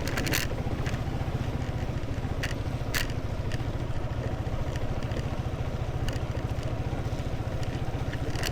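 Motorcycle riding on a rough, broken road: a steady low engine and road rumble with a few scattered sharp knocks and rattles.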